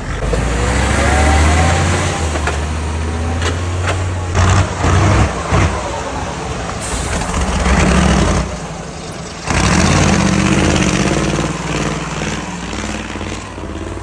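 Heavy off-road truck engine running with a steady low drone, then several loud sudden sounds about four to six seconds in, followed by more engine sound.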